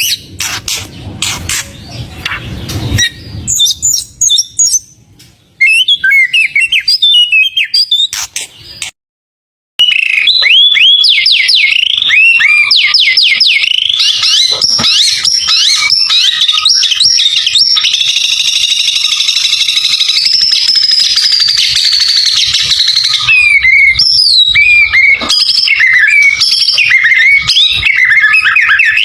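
White-rumped shama singing a loud, fast, varied run of whistled notes that slide in pitch, with a longer trill in the middle. The song breaks off completely for about a second just before the ten-second mark. Clicks and a low rumble sound in the first few seconds.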